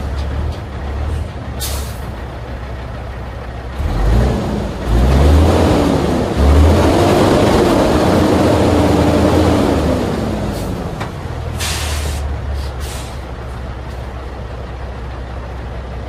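Peterbilt 387 dump truck's CAT C15 diesel engine running, then revving up about four seconds in as the truck moves off under its automatic transmission; the pitch climbs and falls back over several seconds before settling to a steady run. Short bursts of air hiss come about two seconds in and again near twelve seconds.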